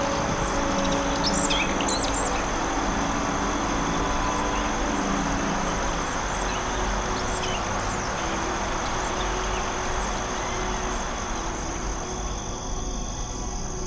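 Forest ambience: a steady high-pitched insect drone over a constant rushing hiss, with a few quick bird chirps in the first two seconds.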